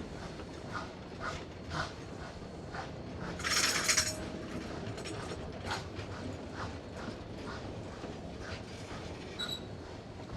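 Railroad passenger cars rolling slowly past, their wheels clicking over the rail joints at a slow, even rhythm of about two clicks a second. A brief loud hiss cuts in about three and a half seconds in.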